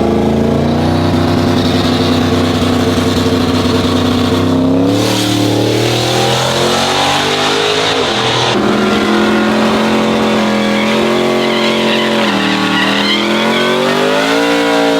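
Pickup truck engines running loud at close range, the pitch holding steady, then stepping down and rising again as they are revved.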